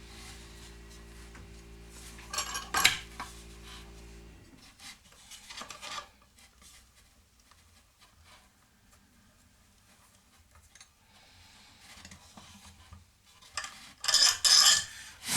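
Metal parts clinking and scraping as they are handled at a workbench, with a loud burst of clatter near the end. A steady low hum runs under the first few seconds and stops about four seconds in.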